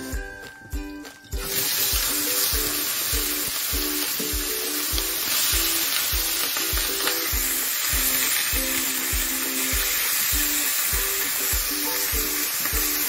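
Food frying in hot oil in a pan, a dense sizzle that starts about a second in and continues steadily. Background music with a steady beat plays throughout.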